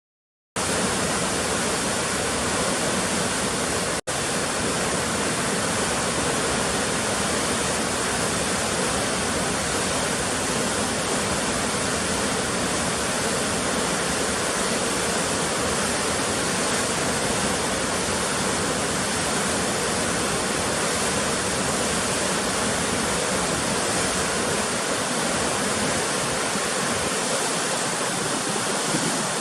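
Waterfall: a steady roar of falling water that starts about half a second in, with a momentary break about four seconds in.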